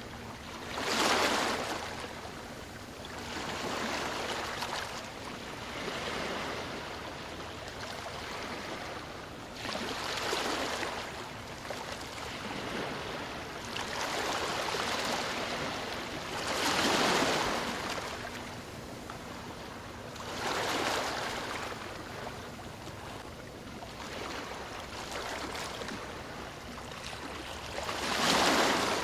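Ocean waves breaking and washing up the shore: a steady hiss of surf that swells into a louder rush every few seconds, the biggest about a second in, midway and near the end.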